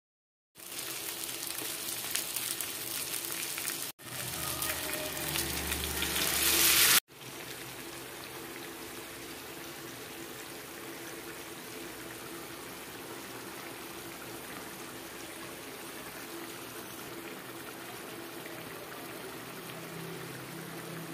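Masala-coated fish frying in oil in a pan, a steady sizzle. A louder stretch from about four to seven seconds in swells and cuts off. After that, a quieter, even sizzle of the curry gravy simmering in the pan.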